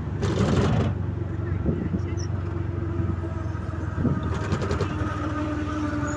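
A vehicle's engine running with a steady low drone. There is a brief burst of noise within the first second and a short rapid rattle about four seconds in.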